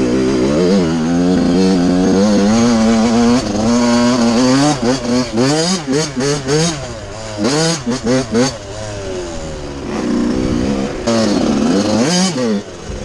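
Suzuki RM85 single-cylinder two-stroke dirt bike engine revving, its pitch rising and falling again and again, held fairly steady for the first few seconds, then quick short throttle blips around the middle.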